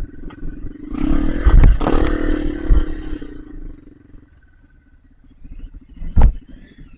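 Trail dirt bike engine running at a steady note, with a loud stretch of clattering and knocks from about a second in to past three seconds, and a single sharp knock near the end as the bike rides over rough trail.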